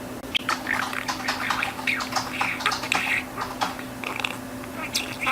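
Budgerigar chattering: a fast run of chirps, clicks and short warbled notes beginning about a third of a second in, over a steady low hum.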